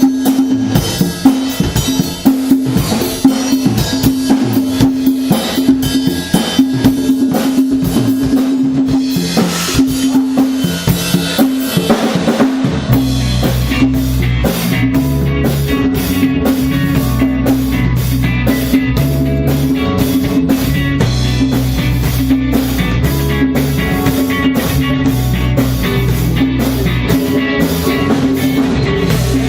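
Live rock band playing at a sound check: a drum kit beat with a repeating pitched riff, and deep bass notes joining about halfway through.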